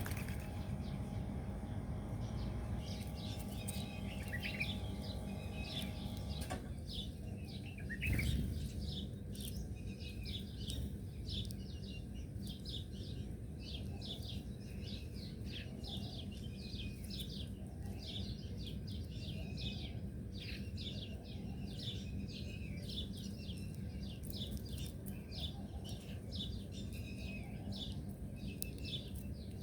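Several small birds chirping in rapid, overlapping short calls over a steady low background rumble, with a brief low thump about eight seconds in.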